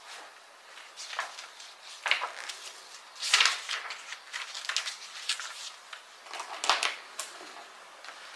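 Scattered rustles and light knocks of books and papers being handled on a desk, with the loudest rustle about three and a half seconds in.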